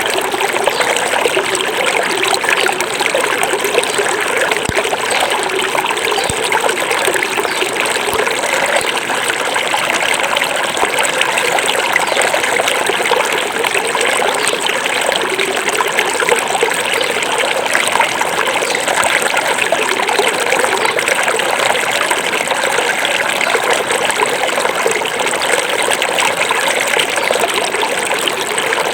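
Small forest river flowing steadily, a continuous babble and trickle of water over stones.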